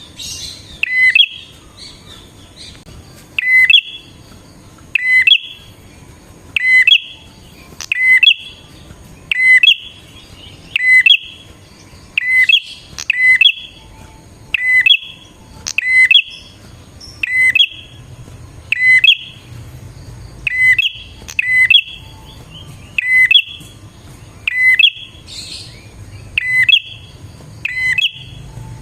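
Prenjak (prinia) calling steadily: a loud, sharp, short call repeated at an even pace about every one and a half seconds, about twenty times. This is the insistent 'gacor' calling used as a lure for wild prenjak.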